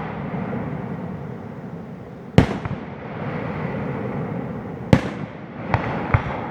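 Aerial fireworks shells bursting: a loud boom about two and a half seconds in, another about five seconds in, and two smaller bangs close together near the end, with a low rumble in between.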